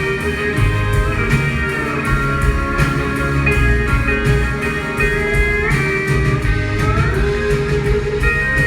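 Live instrumental passage of a song: guitars playing sustained notes, several of them gliding in pitch, over a steady low bass.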